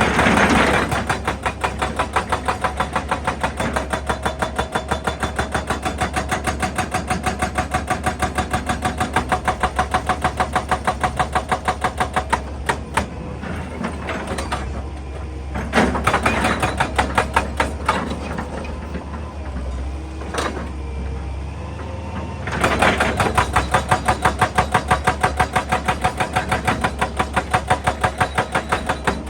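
Excavator-mounted hydraulic breaker hammering rock in bursts, about four blows a second, over the excavator's steady engine. The hammering stops twice for a few seconds while the engine runs on.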